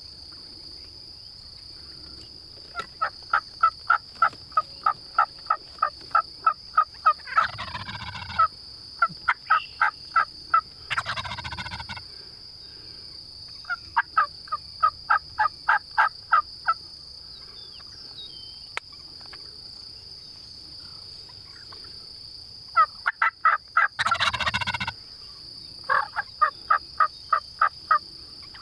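Osceola wild turkey gobblers gobbling three times, each loud rattling gobble set among runs of rapid, evenly spaced yelping notes, about three or four a second, over a steady high insect whine.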